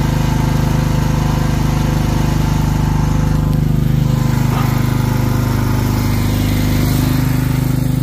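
Small carbureted petrol engine of a Nicosail mini excavator running steadily. About three seconds in, a hiss joins the engine note and the engine pitch dips slightly.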